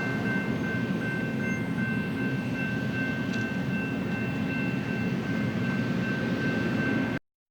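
BNSF freight train rolling past, a steady rumble of cars on the rails with a thin steady whine above it. It cuts off abruptly about seven seconds in.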